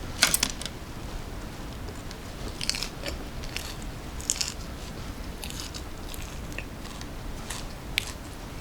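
Close-miked eating sounds of a mouthful of glutinous rice with vegetables and meat being bitten and chewed. Scattered short clicks and smacks from the mouth come at irregular intervals, with the clearest one just after the start.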